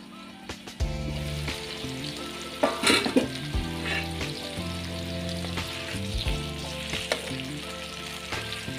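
Pork belly frying in its rendered fat on a flat pan: a steady sizzle that starts about a second in, with a louder burst of spitting about three seconds in. Background music plays underneath.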